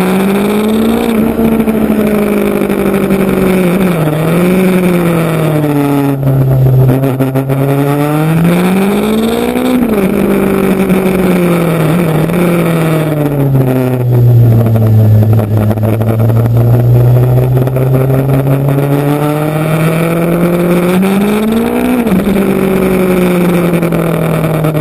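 Motorcycle engine running on the road. Its pitch climbs slowly and falls with the throttle, and it drops sharply twice at gear changes, about ten seconds in and again near the end.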